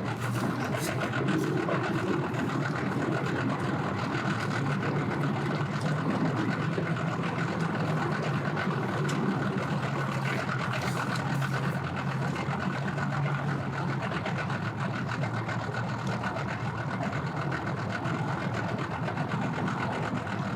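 Engines idling steadily with a continuous low hum. A steady low tone stands out from about four seconds in until about fourteen seconds in.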